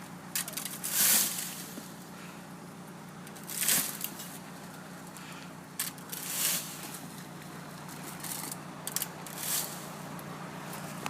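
Scoops of loose bird seed thrown and scattering in four short hissing showers, about every three seconds, over a steady low hum.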